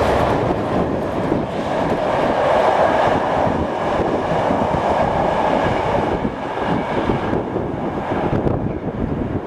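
Rake of passenger coaches rolling past on the rails and drawing away, a steady rumble of wheel-on-rail noise that eases a little near the end, with wind on the microphone.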